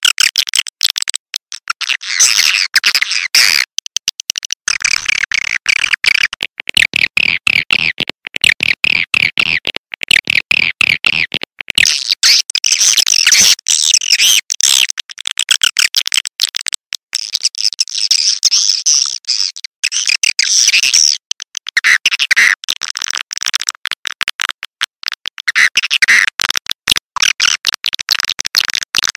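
Swiftlet lure call: a recording of edible-nest swiftlets twittering in dense, fast, high-pitched chirps, broken by many short abrupt gaps where the track is cut and looped. It is the kind of call played from a swiftlet house to draw the birds in.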